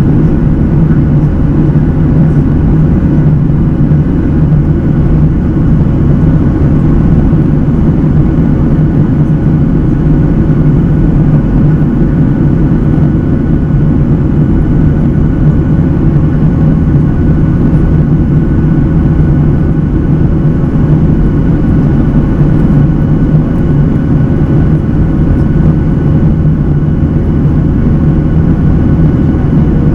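Steady, loud rumble of a Boeing 737-800's CFM56 engines and airflow heard inside the passenger cabin, with a few faint steady tones above it.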